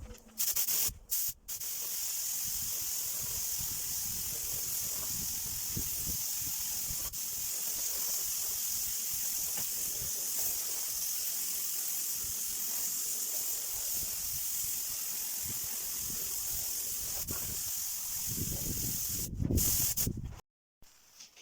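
A steady, high-pitched hiss of a pressurised jet, opening with a few short spurts, then held for about twenty seconds before cutting off suddenly near the end.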